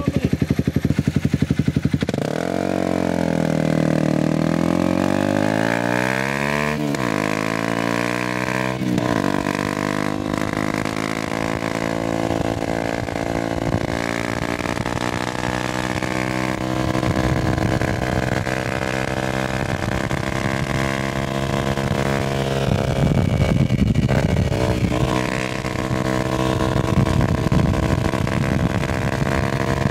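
Honda CBR250R single-cylinder engine accelerating. Its pitch climbs and drops sharply at two upshifts in the first ten seconds, then it runs at a fairly steady cruising pitch with small rises and falls.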